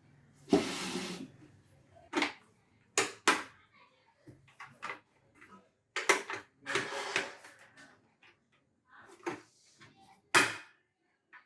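Hard plastic clicking, snapping and scraping as a Vega motorcycle helmet's visor is worked off its side mounts. It comes in separate bursts, with a few sharp snaps, the loudest near the end.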